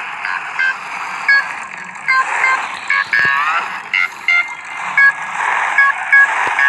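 Music playing from a car sound system: short, high-pitched electronic notes repeating over a steady hiss.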